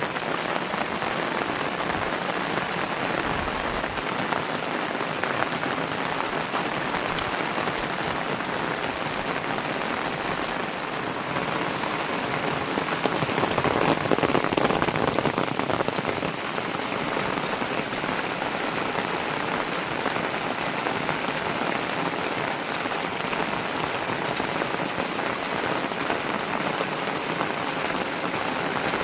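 Heavy rain falling steadily, with a few seconds around the middle where it grows a little louder.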